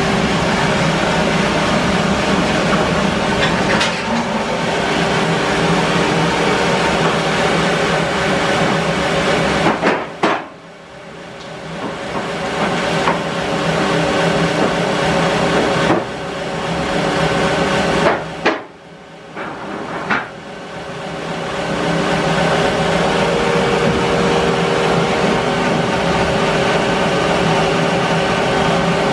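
Bandsaw mill running and sawing English larch, a loud steady mechanical noise with several steady tones. It drops away sharply twice, about ten seconds in and again just over halfway, each time with a sharp knock, then builds back up to full level.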